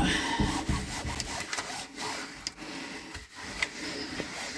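Irregular scrubbing and scraping strokes as the cabinet space under a kitchen sink is wiped and cleaned.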